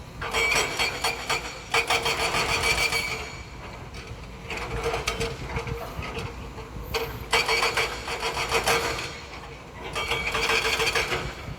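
Heavy earthmoving machinery clattering in about five bursts of one to two seconds each, with a steady metallic squeal sounding through each burst.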